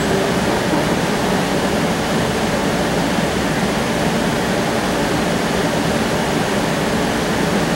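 Steady cabin noise inside a Cincinnati Bell Connector streetcar: an even rushing hiss over a low rumble, with no single event standing out.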